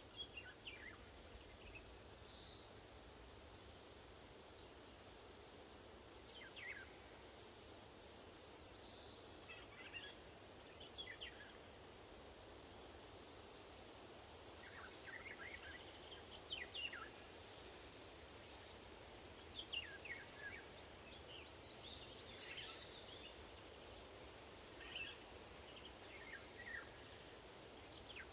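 Eurasian golden orioles and other woodland birds calling in short, scattered phrases of quick sweeping notes, some a few seconds apart, over a faint steady hiss of wind.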